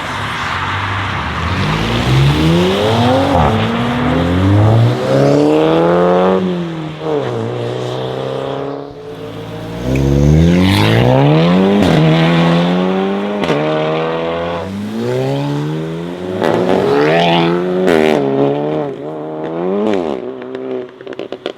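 Modified sports car engine revving hard and accelerating, its pitch climbing and dropping sharply several times. Crackles from the exhaust near the end.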